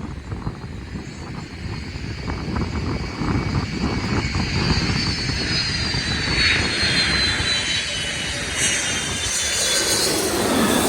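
Jet airliner on final approach passing low overhead, its engines' high whine sliding down in pitch over a low rumble and growing louder as it comes over.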